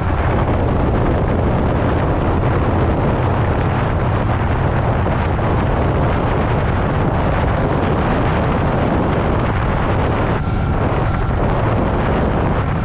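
Motorcycle riding at road speed: heavy wind rumble on the microphone over the engine's steady running.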